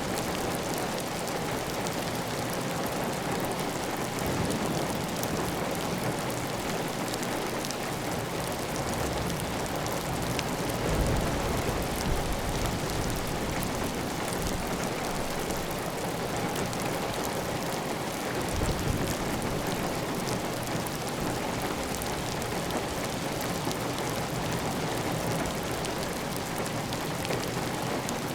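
Heavy rain falling steadily on a clay tile roof, with water running off the roof edge. A few brief low rumbles swell up about 4, 11 and 19 seconds in.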